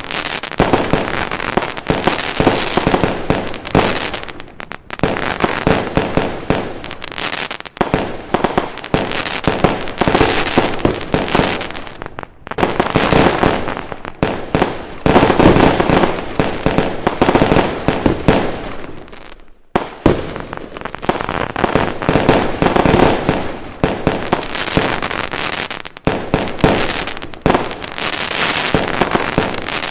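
Fireworks going off in dense, rapid volleys of bangs and crackles, with brief lulls a few times between barrages.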